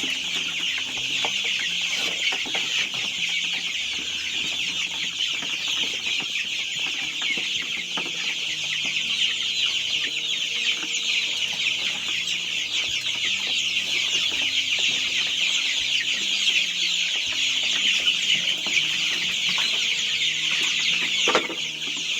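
A brood of young chicks peeping continuously, many high-pitched cheeps overlapping into a steady chorus.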